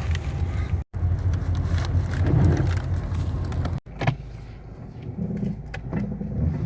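A car going by on a flooded road: a steady low rumble for about four seconds, which then drops away to a quieter background with a few sharp clicks.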